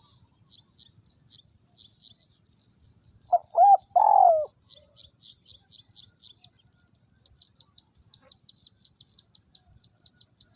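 Spotted dove cooing once, about three seconds in: two short notes and then a longer note that falls in pitch. Faint high chirping runs under it, becoming a rapid, even series in the second half.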